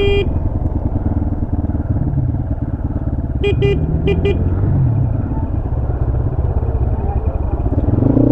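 Motorcycle engine running under way, its pitch rising and falling slightly with throttle, with a horn beeping once at the start and three short times about three and a half to four seconds in.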